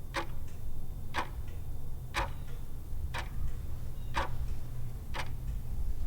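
Clock-tick sound effect of a quiz countdown timer, ticking steadily once a second, six ticks, over a low steady hum.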